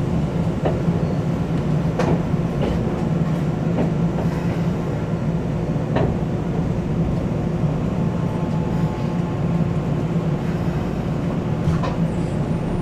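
Keisei 3400-series electric train heard from inside the cabin: a steady running rumble and hum, with a few sharp clicks, around 2 and 6 seconds in.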